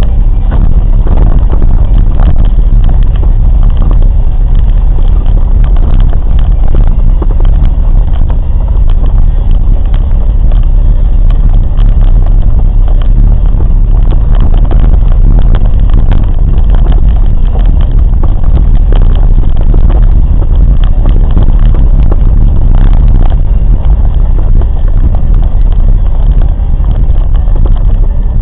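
Moving train: a loud, steady rumble, heaviest in the bass, with many short knocks and crackles throughout.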